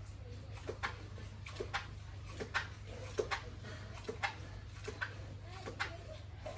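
Pigs in a pen making irregular short clicks and brief soft grunts, over a steady low hum.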